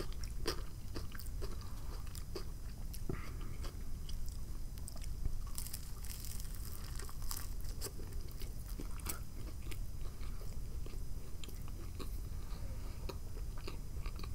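Close-miked chewing of a mouthful of black bean patty sandwich: irregular wet mouth clicks with occasional crunches of crusty bread.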